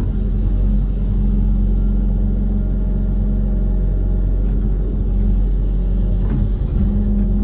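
Diesel engine of an amphibious excavator running steadily under working load, with a brief knock or clank about six seconds in.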